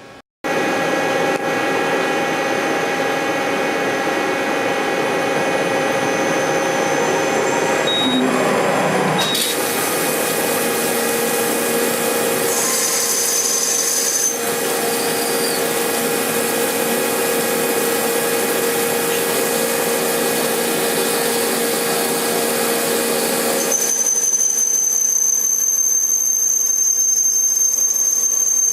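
Okuma LNC-8 CNC lathe running a parting and back-chamfer cycle on heat-treated 4140 steel with an ISCAR parting tool, coolant spraying onto the insert: a steady loud hiss over a steady machine hum. About 24 seconds in, the hiss drops away and a steady high whine is left.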